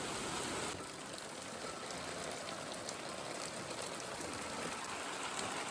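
Heavy rain falling steadily, with a few sharper drop hits standing out here and there.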